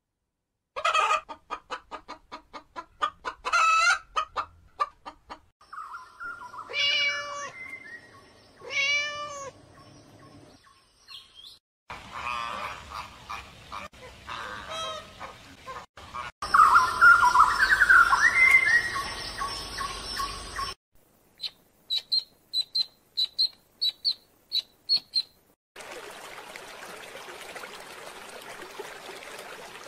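Chickens clucking and calling in quick pulses, then longer rising-and-falling calls, followed by other bird sounds: a run of evenly spaced high chirps, about two a second, and a steady even noise near the end.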